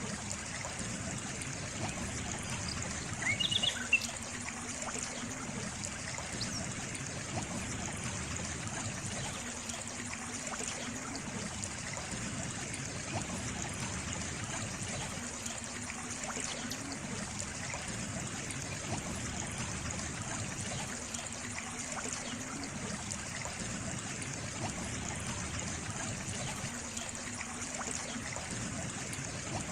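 Running water trickling steadily. There is a brief high chirp about three to four seconds in, and a low hum that swells and fades about every six seconds.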